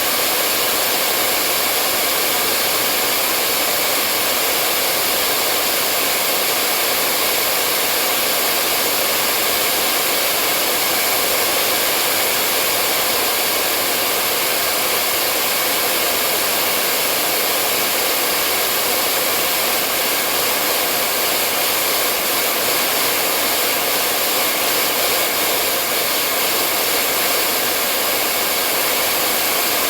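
Hair dryer running continuously at a steady setting, an even rushing hiss of blown air and motor with faint steady tones and no change in pitch or level.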